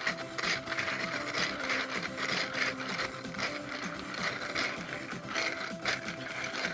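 3D-printed plastic 8-cylinder radial engine model being turned, its pistons, rods and hub clicking and clattering in a fast, irregular patter.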